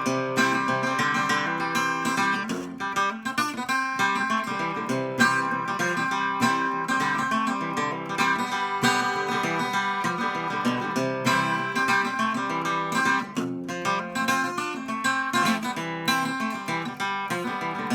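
Instrumental break in a country novelty song: a single stringed instrument strummed in a steady rhythm, with picked melody notes, and no singing.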